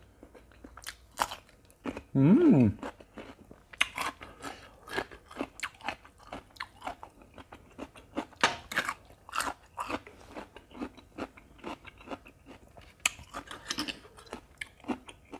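Close-miked crunching and chewing of raw cucumber: many crisp bites and crunches in quick, uneven succession.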